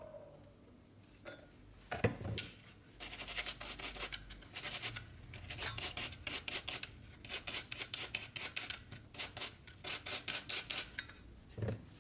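Rapid back-and-forth scrubbing strokes on a carburetor part being cleaned, about four a second, in runs of several strokes with short breaks. A single knock comes just before the scrubbing starts and another near the end.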